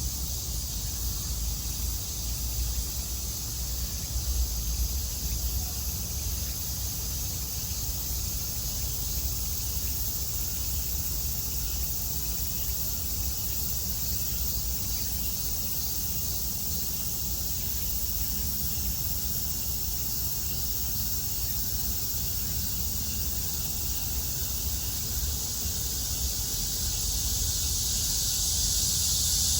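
Steady chorus of summer cicadas, a dense high-pitched buzz that swells louder over the last few seconds, with a low rumble underneath.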